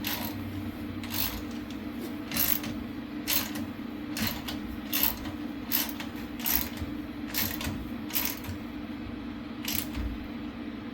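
A series of sharp metallic clicks, about one a second and unevenly spaced, over a steady low hum.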